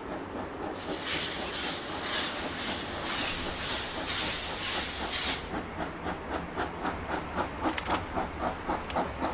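JNR C11-class steam tank locomotive C11 207 working under steam, its exhaust beating in a steady rhythm. A loud hiss of venting steam pulses with the beats for the first few seconds and cuts off about five seconds in. The chuffs grow louder toward the end.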